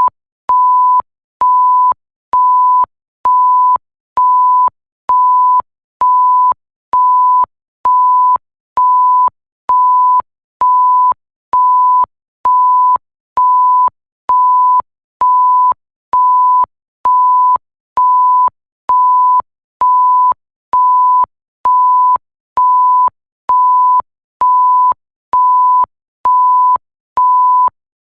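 Electronic bleep sound effect: a single pure tone at one steady pitch, pulsing on and off about once a second, each beep long with only a short gap between.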